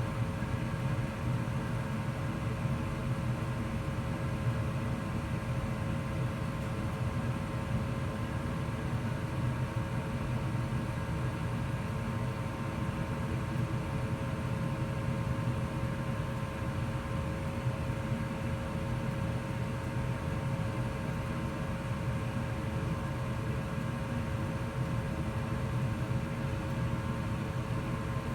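2004 Goodman gas furnace running steadily in heat mode: an even low rumble with a steady motor hum.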